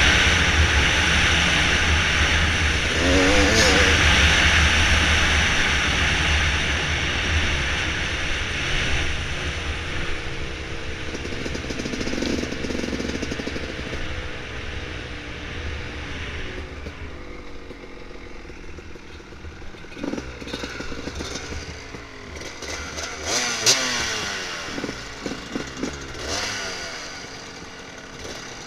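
Dirt bike engine running along a trail, loud and revving with rising and falling pitch for the first several seconds. It then runs quieter, with several short throttle blips in the second half.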